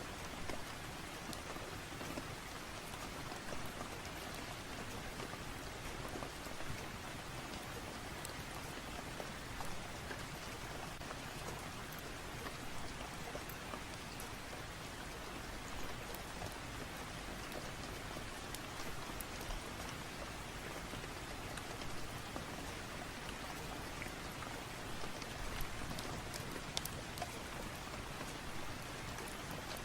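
Steady rain falling, with scattered faint ticks of individual drops.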